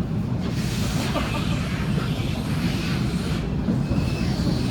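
Waratah A set electric train running, heard from inside the carriage: a steady low rumble, with a hissing wash over it from about half a second in until about three and a half seconds.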